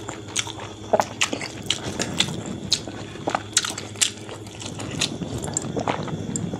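Close-up wet chewing and lip smacking from a mouthful of rice and pork curry, with sharp mouth clicks coming irregularly several times a second.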